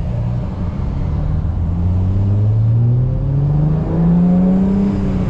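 Single-turbo BMW 335i's N54 inline-six pulling under acceleration, its pitch rising steadily for a few seconds, then dropping quickly near the end with an upshift of the manual gearbox.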